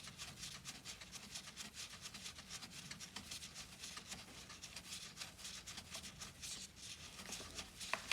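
A hand tool backing a screw out of a lawn mower's housing: a faint, quick run of small metal clicks and scraping.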